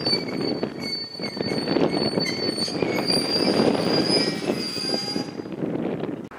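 JR Kyushu 811 series electric train pulling in alongside the platform: rumble of the wheels and running gear with a thin, steady high-pitched squeal. The squeal stops about five seconds in, and the sound drops away abruptly near the end.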